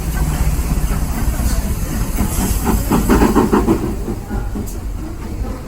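Steam train rumbling steadily, with a short run of rapid knocking and a hiss of steam about midway.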